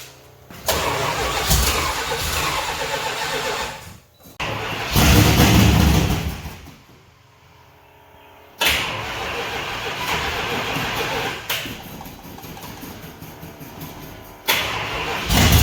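A 400 big-block V8 being cranked over by its starter in several tries, with pauses between them, the engine catching and firing briefly as fuel reaches it after carburettor work. The loudest try comes about five seconds in.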